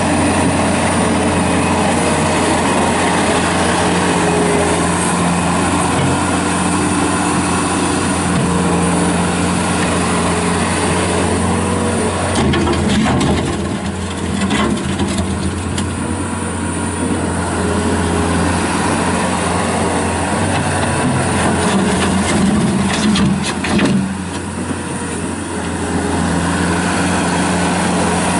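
Bobcat S185 skid steer loader's diesel engine running steadily. The sound dips a little and knocks a few times about halfway through and again near the end, as the machine is worked.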